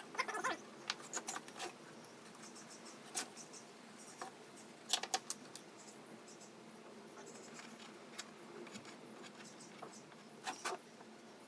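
Faint scratching and scattered light clicks and taps from a pencil compass marking arcs on small wooden pieces as they are handled on the bench, with a cluster of clicks near the start and a few more spread through.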